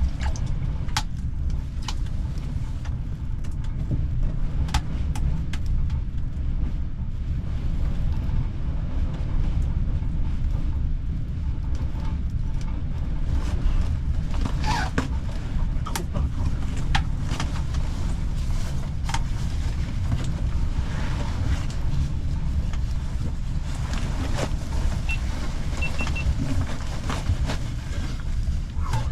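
Storm wind rumbling steadily on the microphone, with scattered small clicks and taps throughout.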